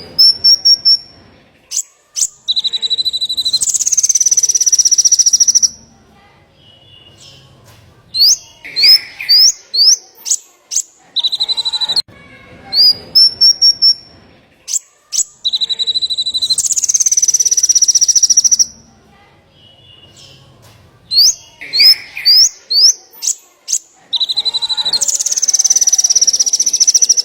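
Small songbird singing a repeated phrase: a few quick rising whistled notes, a steady whistle, then a buzzy trill lasting two to three seconds. The phrase comes round about every twelve seconds, three times.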